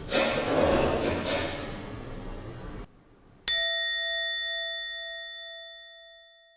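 A rough rustling noise, then about three and a half seconds in a single bell-like chime struck once, ringing clear and fading slowly away.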